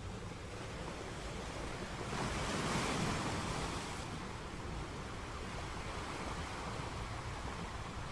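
Sea surf: waves rushing steadily onto a shore, with one wave breaking louder about two to three seconds in.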